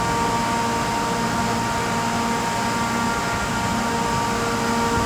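Steady mechanical hum with several held tones from trains standing at the platform, unbroken and without any sudden event.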